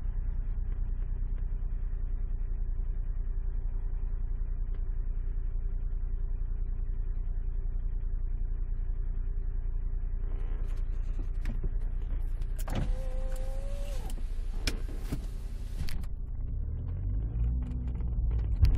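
Alfa Romeo 156 engine running steadily, heard from inside the cabin. About thirteen seconds in, a short electric motor whine with a rush of noise lasts about a second, a few sharp clicks follow, and near the end the engine note rises unevenly.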